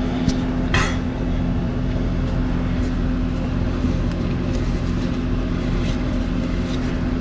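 Steady hum of an idling engine, with a couple of light clicks in the first second.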